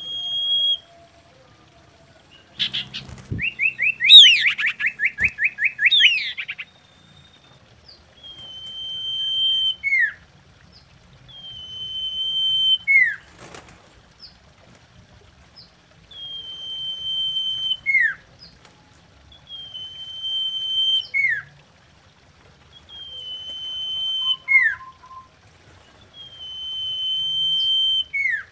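Common iora calling: a fast trill of short, chattering notes near the start, then a series of six long drawn-out whistles, each swelling in loudness and ending in a sharp downward-slurred note, repeated every three to four seconds.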